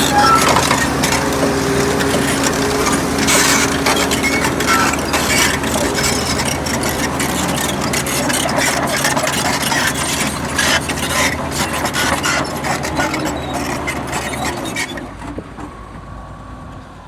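Heavy diesel earthmoving machine running steadily, with frequent clanks and knocks over the engine; the sound drops away about fifteen seconds in.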